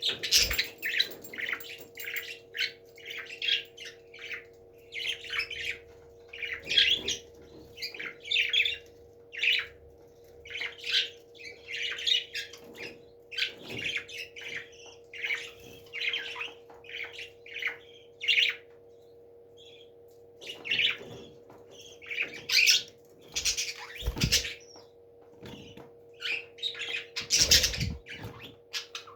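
Pet parrots squawking and chirping in short, rapid calls, several a second, over a steady low hum. Two dull thumps come near the end.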